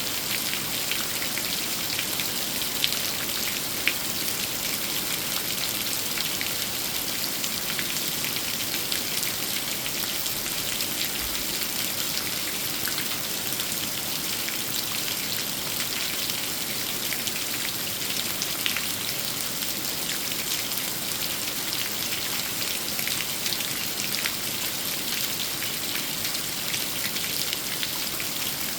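Steady rain falling on a big old tree, an even hiss of rain with many small drops pattering. A few louder single drops stand out about 3 and 4 seconds in and again a little past halfway.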